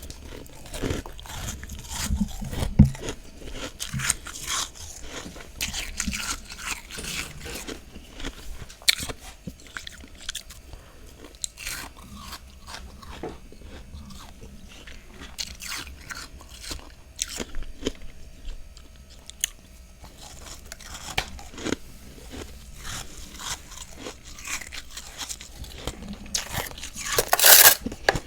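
A person biting and chewing mouthfuls of freezer frost close to the microphone: a run of crisp, crackly crunches, with a louder, denser burst of crunching about a second before the end.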